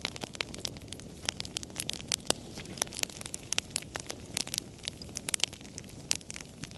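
Wood fire crackling: irregular sharp pops and snaps, several a second, over a low steady rush of the flames.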